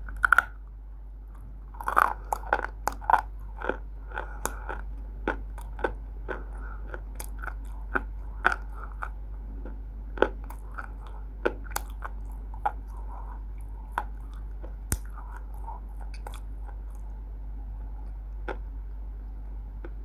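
Someone biting and chewing roasted Multani mitti (fuller's earth clay): a run of sharp, dry crunches, thickest a couple of seconds in and thinning to single crunches later on.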